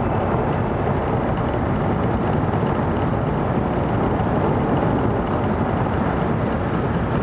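Cabin running noise of a 700 series Shinkansen moving at speed: a steady, even rush with a low rumble underneath.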